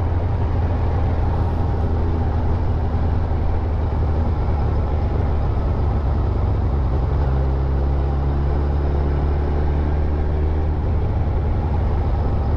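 Motorcycle engine running with wind rumble while riding. A steady engine note stands out for a few seconds from about halfway through.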